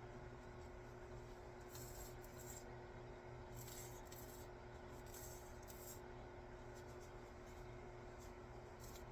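Faint, short rubbing sounds, about four of them, over a steady low hum, as glue is worked onto the wooden axe handle where the head fits.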